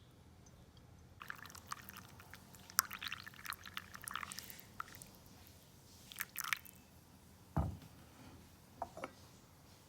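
Wet crackling and ticking from handling pour-over coffee things for a few seconds, then a short rustle, a soft thump and two light knocks near the end.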